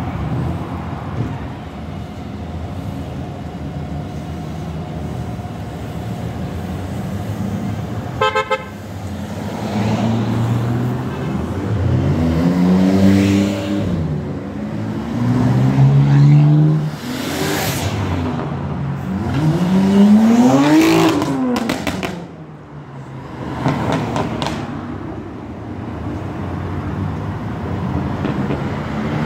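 Performance cars driving past, engines revved hard three times in rising-and-falling bursts, with a short horn toot about eight seconds in.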